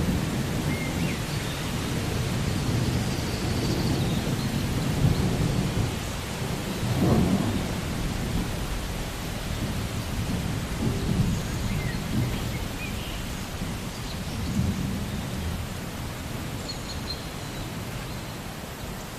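Thunderstorm: low thunder rumbling over steady rain, with a louder roll of thunder about seven seconds in.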